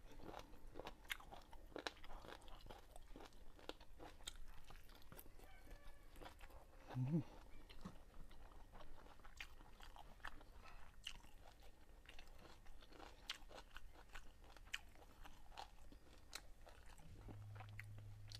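A person chewing and crunching chicken gizzards and rice close to a clip-on microphone, with many small mouth clicks and smacks. A short low hum comes about seven seconds in, and a steady low hum comes near the end.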